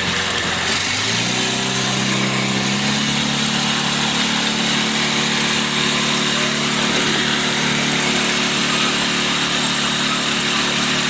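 A small boat's engine speeds up about a second in, its pitch climbing for a couple of seconds, then runs steadily over a constant hiss of water and air.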